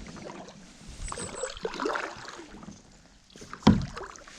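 A kayak being paddled: uneven splashing of paddle strokes in the water, with one sharp knock about three and a half seconds in.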